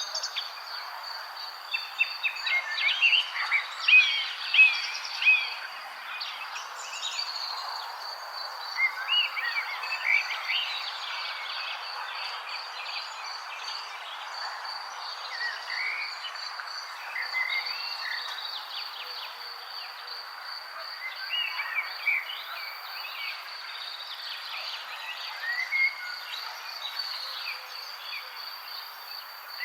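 Wild birds chirping and singing in short, scattered calls over a steady, high, pulsing insect trill and a constant background hiss.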